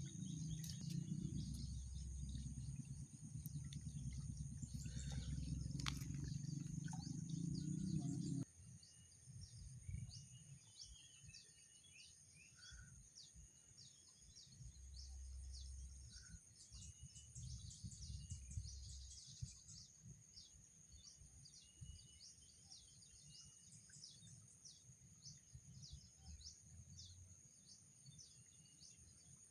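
Rural outdoor ambience: bird chirps and a steady high-pitched ringing over a low rumble. The rumble cuts off suddenly about eight seconds in, leaving the chirps and ringing faint.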